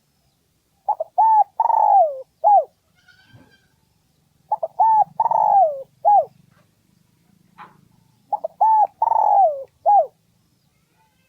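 Spotted dove cooing three song phrases, about 3.7 seconds apart. Each phrase is a few quick short notes, then a long note falling in pitch, then a short closing note. This is a decoy dove's call, used to draw wild males in to fight.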